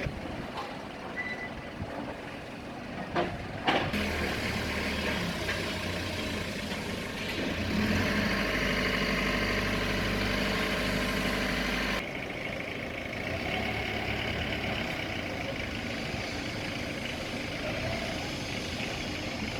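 Cummins six-cylinder turbocharged diesel generator engine running steadily, preceded by a couple of sharp knocks. The engine drone gets louder for a few seconds in the middle, then drops back suddenly.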